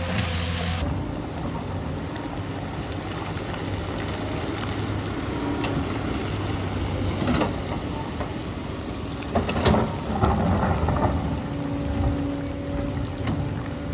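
Hyundai excavator's diesel engine running steadily at work, with scraping and clattering knocks of earth and rock, heaviest about two thirds of the way in.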